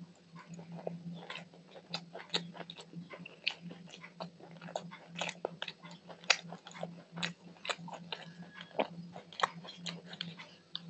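Close-miked mouth sounds of biting and chewing a piece of chicken curry off the bone: many irregular sharp clicks and smacks. A steady low hum runs underneath.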